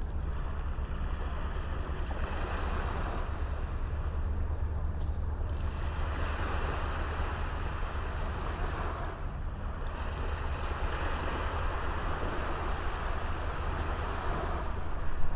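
Sea waves washing on a small beach, the surf swelling and fading in slow surges every few seconds, over a steady low rumble of wind on the microphone.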